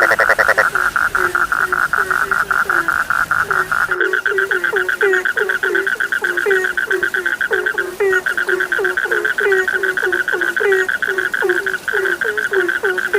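A chorus of frogs: a fast, continuous high trill, with short, lower croaks that fall in pitch repeating two or three times a second. About four seconds in, the croaks come thicker and closer together.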